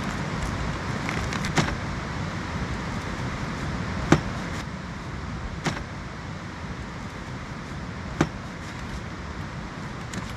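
Steady rushing background noise with four sharp clicks or snaps spread a second or more apart.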